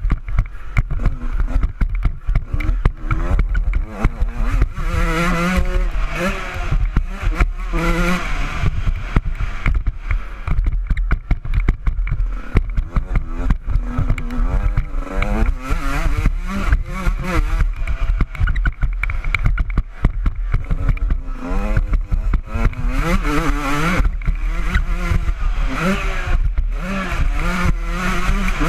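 Honda CR125 two-stroke single-cylinder motocross bike being ridden hard, its engine revving up and dropping back over and over, with heavy wind rumble on the microphone.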